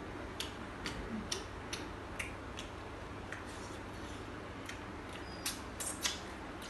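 Eating sounds: irregular small clicks and smacks, about a dozen, coming unevenly and a little more often near the end, over a steady low background hum.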